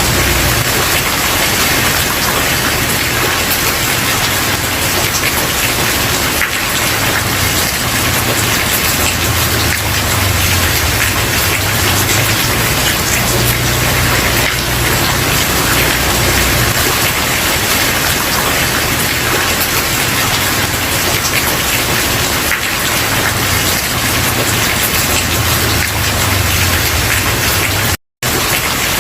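Steady rain falling, an even wash of drops with no pauses. Near the end it cuts out to silence for a split second, then resumes.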